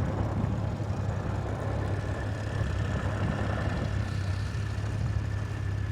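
Tractor engine running steadily as it pulls a plough away on a run.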